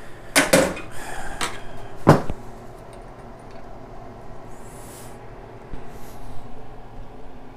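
A few sharp knocks and clunks of hand tools and engine parts being handled, the loudest about two seconds in, followed by quieter scattered handling noises.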